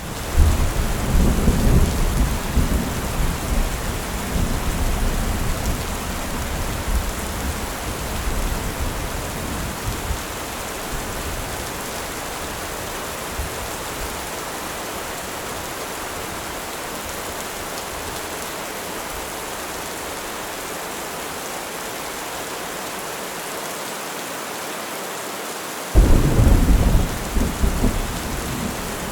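Steady rain hissing, with rolling thunder that rumbles at the start and fades away over about ten seconds, then a sudden new thunderclap near the end.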